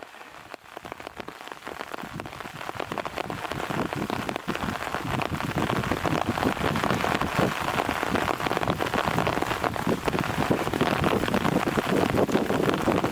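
Wind-driven rain from an approaching typhoon, a dense steady patter that swells in over the first few seconds and then holds.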